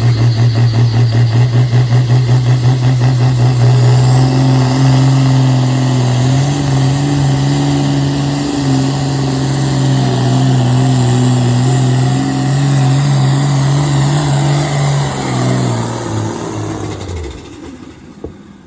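Pulling vehicle's engine under hard load. For the first few seconds it runs with a rapid pulsing lope, then it runs loud and steady for about ten seconds. Near the end its pitch falls and it winds down and fades out.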